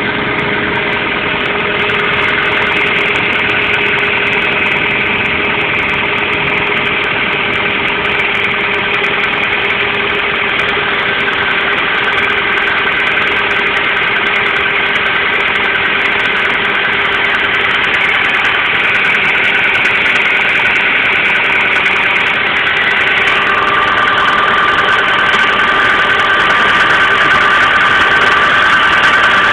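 Hyundai Getz engine idling, with steady ringing tones over the engine note that change a little near the end. The owner is unsure whether the noise is a knock or a ringing.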